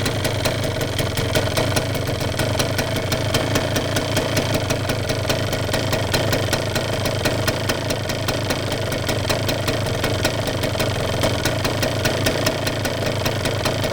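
Yamaha DT175MX two-stroke single-cylinder engine idling steadily with a rapid, even firing beat, on its first run after a full rebuild with new crank bearings, seals, piston and rings.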